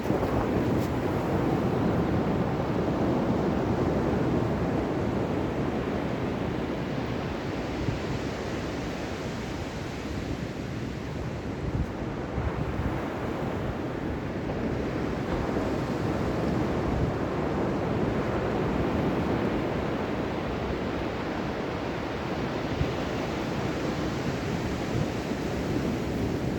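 Ocean surf: a continuous wash of breaking waves that slowly swells and eases over several seconds.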